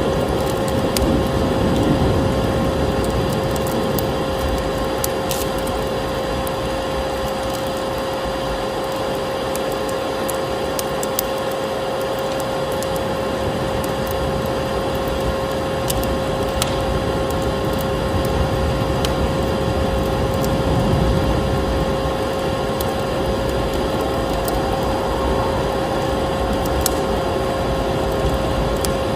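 Vacuum cleaner running steadily with a constant whine, mixed with a wood fire crackling in scattered sharp pops.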